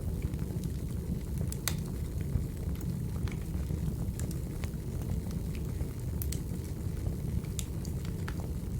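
Recorded wood fire crackling: a steady low rumble of burning logs with irregular sharp pops, the loudest about two seconds in and twice near the end.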